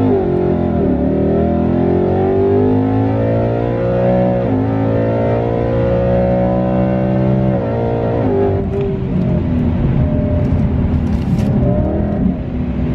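Supercharged Ford Coyote 5.0 V8 of a 2022 Mustang GT under full throttle, heard from inside the cabin. The pitch climbs with revs and drops sharply at each automatic upshift, three times. About 8 s in it eases off to a steadier cruise.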